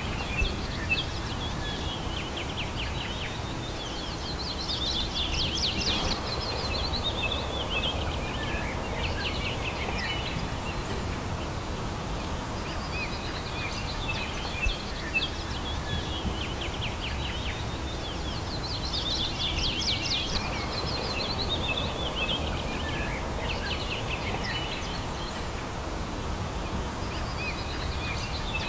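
Songbirds chirping and twittering in quick high trills over a steady low background rumble. The chirping swells twice, about fourteen seconds apart, in near-identical passages, as in a looped recording.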